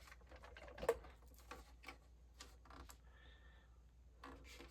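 Faint scattered clicks and taps of furnace condensate parts being handled, with one sharper click about a second in.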